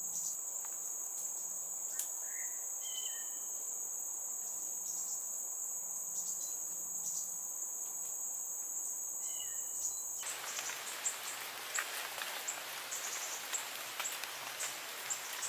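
Steady high-pitched insect drone, with a few short, thin calls from a fledgling crimson sunbird. About ten seconds in the drone stops abruptly, leaving a hiss with light ticks and rustles.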